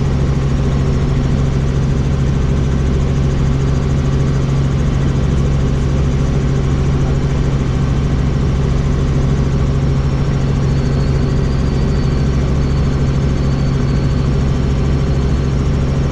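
Helicopter in flight: a loud, steady low drone of rotor and engine that holds unchanged throughout.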